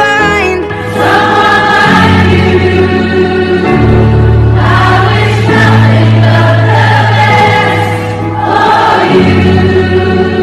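Choir singing in a gospel style over a steady bass line, as background music.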